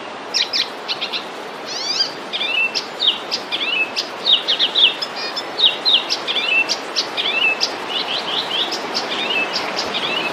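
Many small birds chirping and trilling rapidly over one another, with a steady hiss of background noise beneath.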